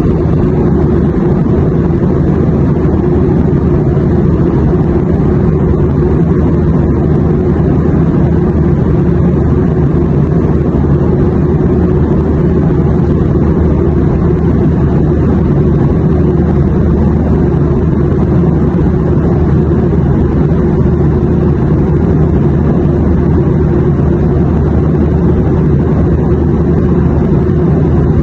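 Airplane noise: a steady, unchanging low drone with a faint hum of steady tones, most of its weight in the bass.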